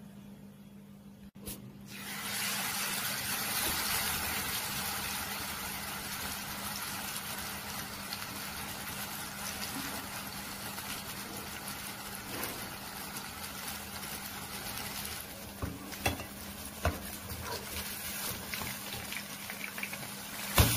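Masala-coated chicken piece sizzling as it fries in hot oil in a nonstick pan. The sizzle starts about two seconds in and stays steady, with a few sharp oil pops near the end.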